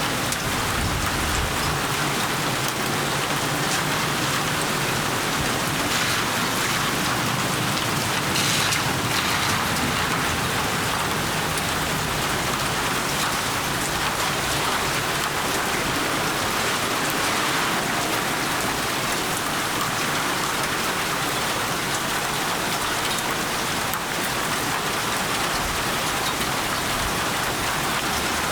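Steady rain falling on surfaces, an even unbroken patter with a few louder drop splashes.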